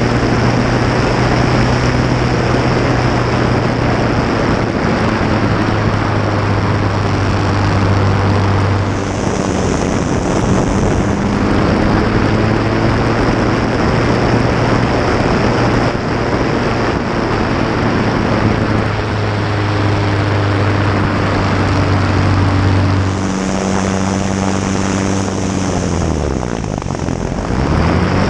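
Fournier light aircraft's piston engine and propeller running under power, heard close up through the cowling with heavy wind rush. The engine note holds steady for most of the time, then near the end falls away sharply in pitch and climbs back up.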